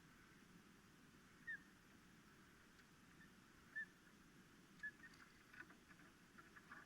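Faint, short high chirps from an animal, three of them a second or two apart, over a steady hiss, with a few faint clicks near the end.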